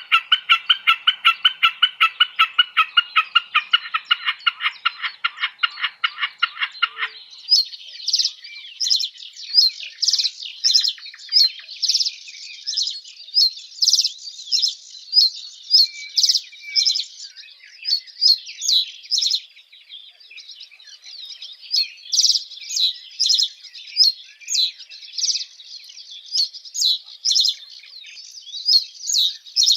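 Birds calling: a rapid, evenly repeated call, about five notes a second, that cuts off abruptly about seven seconds in, followed by a run of high, sharp chirps repeating irregularly.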